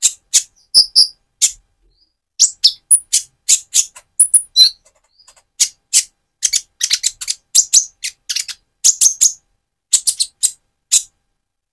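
Purple-throated sunbird (Leptocoma sperata), a young bird still in mottled plumage, calling in short, sharp, high chips. The notes come singly at first, then in quick rapid runs through the second half.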